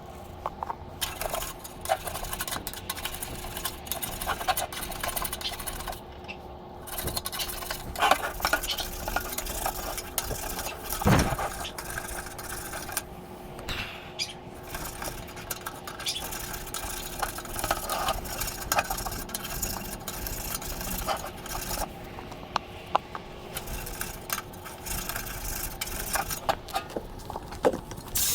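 Metal furnace parts and tools being handled: scattered clinks, light knocks and scraping, the loudest knock about eleven seconds in, over a faint steady hum.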